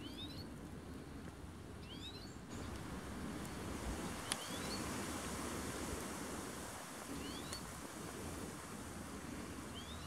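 A bird repeating one short, rising chirp about every two to three seconds, faint over a steady outdoor background hiss.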